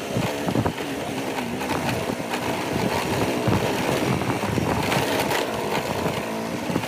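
Motorcycle engine running while riding on a rough dirt road, with many irregular knocks and rattles over the engine note.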